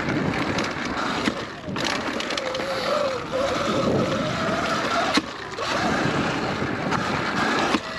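Sur-Ron electric dirt bike ridden at speed: wind rushing over the lav mic and tyres on dirt, with the electric motor's whine rising and then falling as the throttle changes. A sharp knock comes just past five seconds in.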